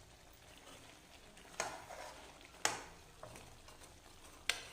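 Spoon stirring a simmering chicken curry in a pot, with three sharp clinks of the spoon against the pot over a faint sizzle.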